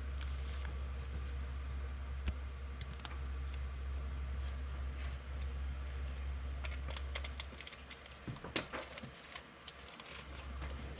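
Trading cards and packs being handled: light clicks and rustling, busier after about seven seconds. A steady low hum runs underneath and fades about seven and a half seconds in.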